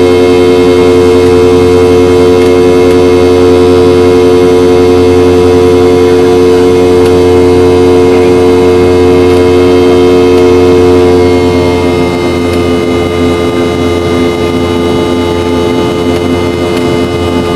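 Boeing 717's tail-mounted Rolls-Royce BR715 turbofan engines running, heard inside the cabin: a loud, steady whine of several tones over a low hum. About eleven seconds in, the level drops slightly and some tones shift, as the engines' power eases.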